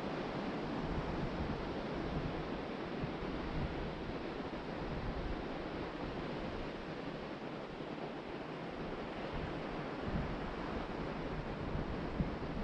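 Ocean surf breaking and washing onto the beach in a steady rush, with wind gusting across the microphone in low rumbles.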